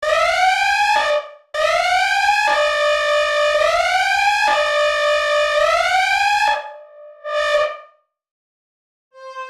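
Brainworx bx_oberhausen software synthesizer playing a bright, buzzy patch: a run of seven notes, each sliding up in pitch as it sounds, then one short note. After about a second of silence, a new steady tone begins near the end.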